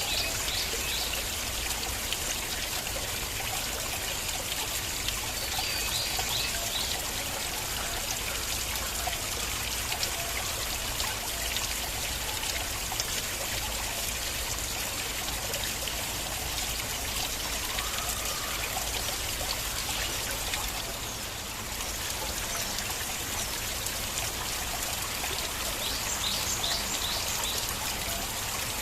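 Stream water flowing and trickling steadily, an even rush of water with a brief slight dip in level about two-thirds of the way through.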